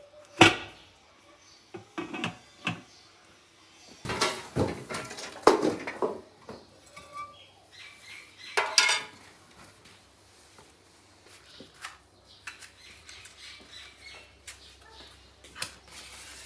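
Dishes and utensils clinking and knocking in a kitchen: a few sharp knocks in the first three seconds, a busier clatter around the middle, then fewer, quieter touches.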